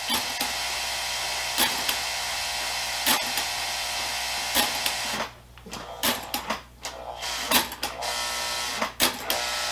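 Toy steam locomotive's motor and wheels running on the track, a steady mechanical whir with a click about every second and a half. About halfway through it cuts out and stutters in short spurts before running again: the engine stalling, which the owner guesses was from getting hung up on a turnout.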